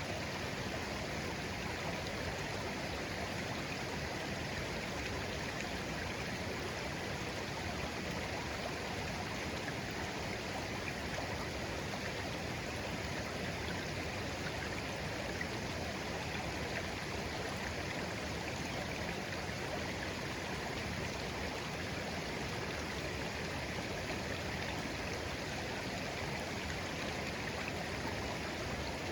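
Shallow stream of clear water flowing gently, a steady even babble with no breaks.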